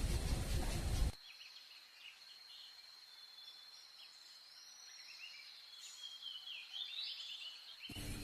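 Small birds chirping and singing in short scattered notes over a thin steady high tone. A loud rushing noise fills the first second and cuts off abruptly, and it starts again just before the end.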